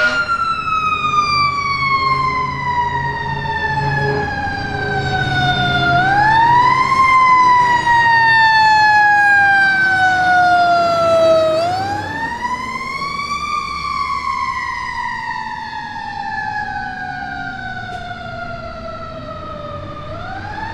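Fire truck siren on the wail, a single tone rising quickly and then falling slowly over several seconds, twice over, starting to rise again at the end. A truck engine rumbles underneath through the first half.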